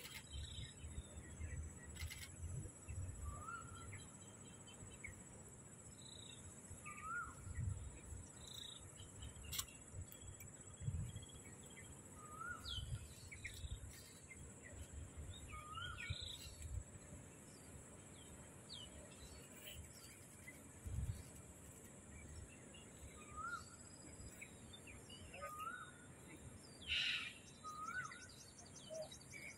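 A bird faintly repeats a short, hooked call note every two to four seconds, over a steady high-pitched hum, with irregular low rumbles.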